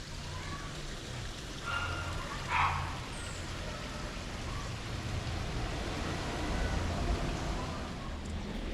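Steady trickling of a small stream. A short, louder sound stands out about two and a half seconds in.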